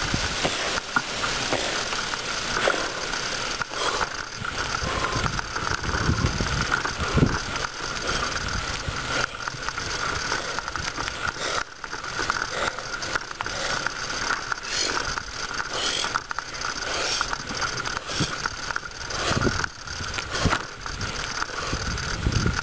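Bicycle freewheel ratcheting steadily as the bike coasts, with the rattle of the moving bike.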